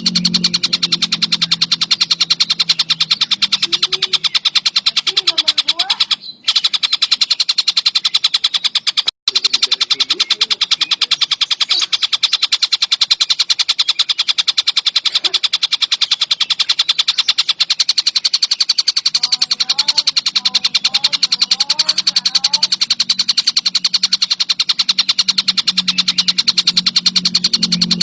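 Tengkek buto (collared kingfisher) calling in a fast, unbroken rapid-fire chatter, shrill and steady, that cuts out briefly twice.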